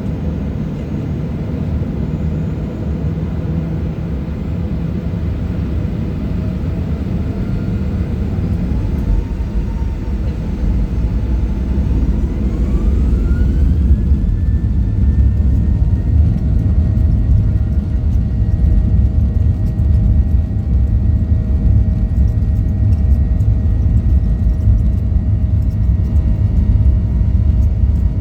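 Boeing 737-800's CFM56 jet engines spooling up, heard from inside the cabin: a whine rising in pitch for several seconds, then holding steady over a heavy rumble that grows louder about halfway through, as at the start of a takeoff roll.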